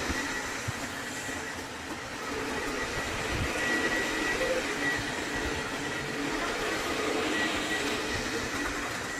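Xiaomi Roidmi EVE Plus robot vacuum running: steady motor noise with a faint, thin high whine.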